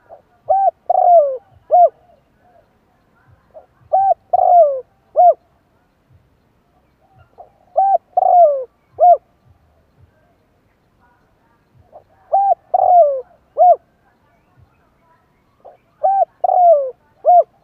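Spotted dove cooing its song: five phrases, about one every four seconds, each a few short coos with a longer falling coo in the middle.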